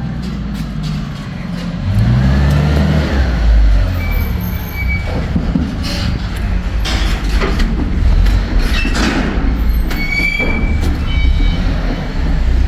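Hotshot pickup truck and trailer rolling slowly into a yard: engine running with a low rumble that rises as it accelerates about two seconds in, with rattles, knocks and a few short high squeaks.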